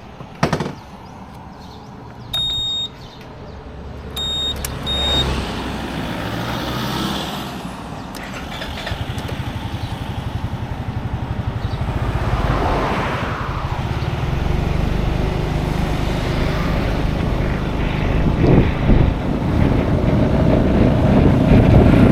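A motor vehicle pulling away and driving, its engine rumble and road and wind noise growing louder. Three short high electronic beeps sound between about two and five seconds in.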